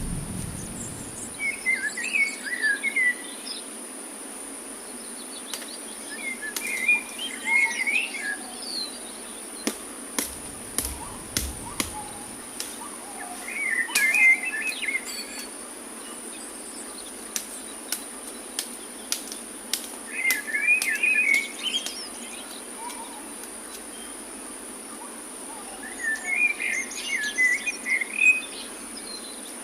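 Tropical forest ambience: a steady, high-pitched insect drone throughout, with a bird singing a short phrase of quick chirpy notes about every six seconds. Scattered sharp clicks.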